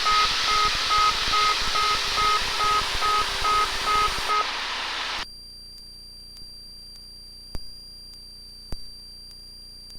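Cessna 172RG landing-gear warning horn beeping about three times a second over cabin engine noise while the retractable gear extends, stopping about four seconds in as the gear comes down. After that the cabin noise drops away, leaving a faint steady high tone with a few clicks.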